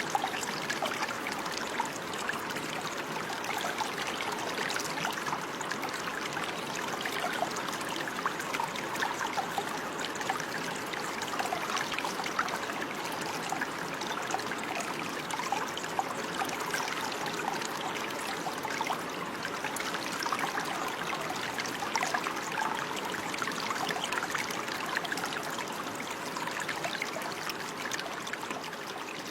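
Running water trickling and splashing steadily, like a small stream over stones.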